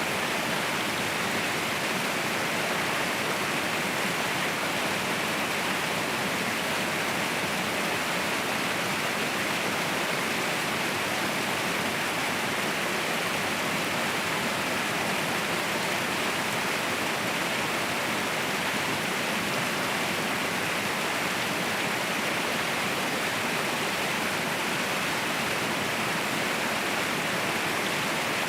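Waterfall roaring steadily: an even, unbroken rush of falling water with no changes or breaks.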